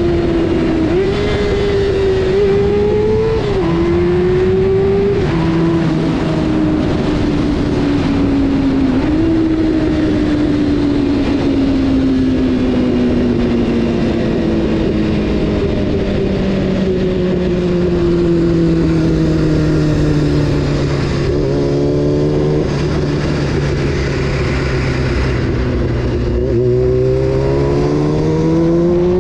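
Honda CBR600 F4's inline-four engine heard from the rider's seat. The revs jump up a few times in the first ten seconds, fall away slowly for a long stretch as the bike slows, then climb again near the end as it accelerates. Wind and road noise run underneath.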